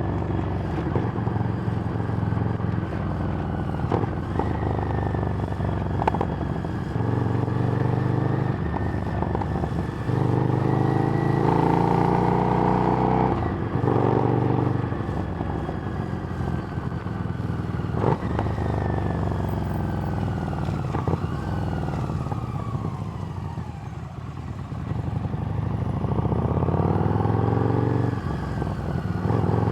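Harley-Davidson Street Rod's 750 cc V-twin running through a Screamin' Eagle exhaust while riding. The engine note rises and falls again and again as the bike accelerates and eases off. It drops away about three-quarters through, then pulls up again near the end.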